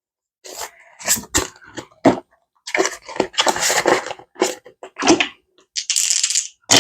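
Paper money and paper envelopes being handled: irregular rustling and crinkling with several sharp crackles, and a longer rustle near the end.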